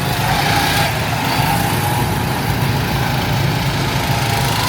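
Go-kart engines running steadily during a race, a loud continuous low buzz.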